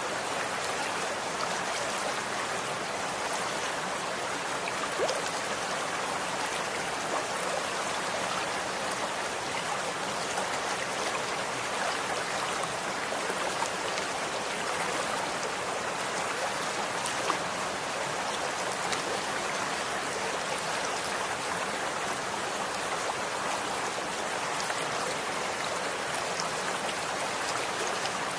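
Running water flowing steadily in a stream, a continuous even rush with small scattered splashes and drips.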